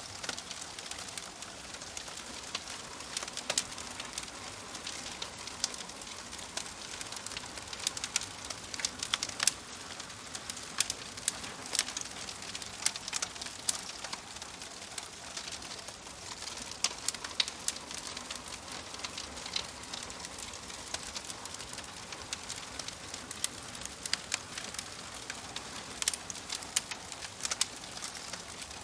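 Fireplace fire crackling: irregular sharp snaps and pops over a steady soft hiss.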